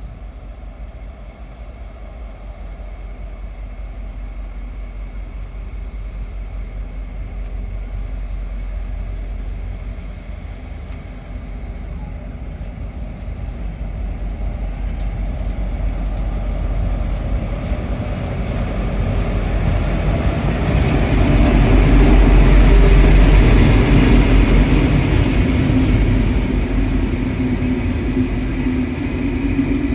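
A train approaching with a steady rumble that grows louder for about twenty seconds, passes at its loudest, then begins to fade.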